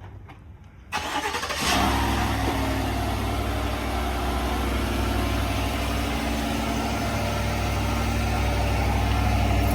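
A 2024 Chevrolet Silverado Z71's engine starting about a second in, with a short crank, catching and flaring, then settling into a steady idle through its stock exhaust.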